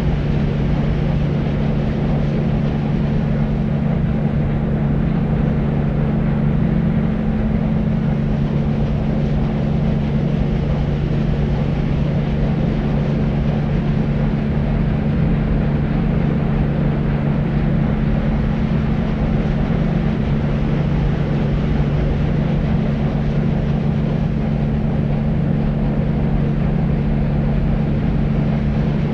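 Deep white noise: a steady, unchanging rushing noise weighted toward the low end, with a low hum underneath.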